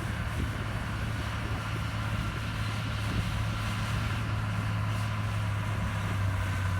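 Heavy diesel engine of earthmoving machinery running steadily, with a thin high whine over the low drone.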